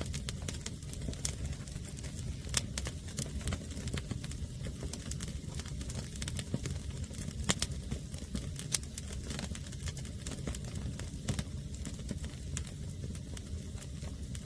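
Wood fire of green firewood burning, crackling with irregular sharp pops over a steady low rumble.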